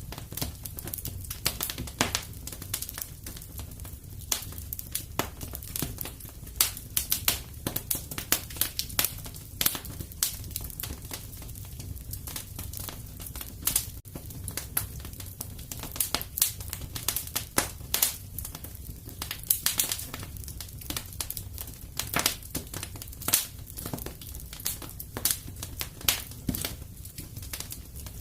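Wood fire crackling in a fireplace: irregular sharp pops and snaps, several each second, over a steady low rumble of the flames.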